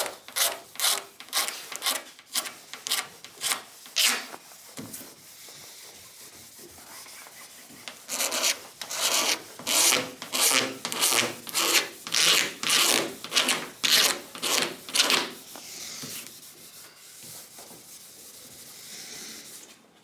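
Razor blade scraped flat across a run in automotive paint, shaving it down level, in short repeated strokes about two a second. The strokes pause around four seconds in, come back strongly around eight seconds in, and turn to fainter rubbing after about sixteen seconds.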